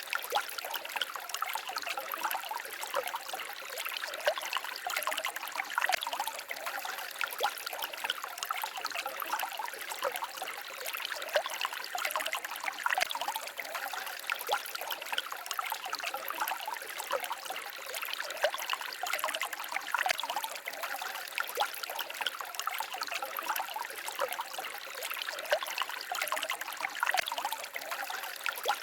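Small forest stream babbling and trickling over stones, a steady splashy water sound with many small quick gurgles and drips and little low rumble.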